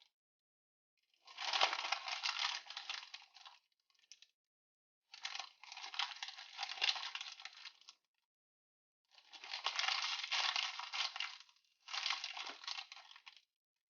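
An Orbeez-filled squishy toy being squeezed, making crinkly, crackling squishing noise in four bursts, each a couple of seconds long, with silence between them.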